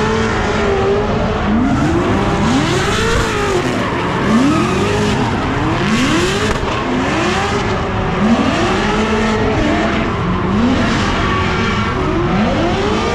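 Drift cars on track, their engines revving up and dropping back again and again, roughly once a second, with the revs of more than one car overlapping, over the noise of sliding, squealing tyres during practice runs.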